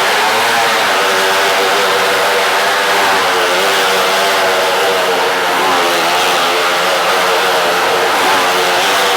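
Motorcycle engine running hard as the bike circles a wall-of-death drum, its pitch rising and falling over and over.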